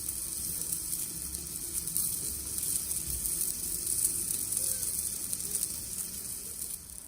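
Meat sizzling on a thick iron griddle over a campfire, a steady crackling hiss that cuts off suddenly at the end.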